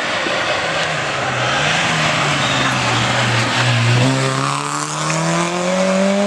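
Rally car engine on a stage: the revs sink for the first few seconds, then about four seconds in it accelerates, the pitch climbing steadily.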